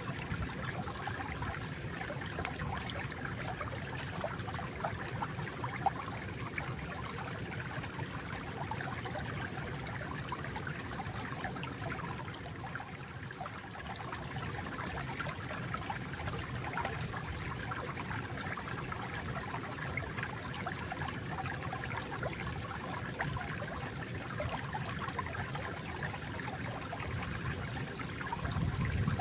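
Water flowing and trickling steadily in a small stream, with a continuous babble and fine splashing.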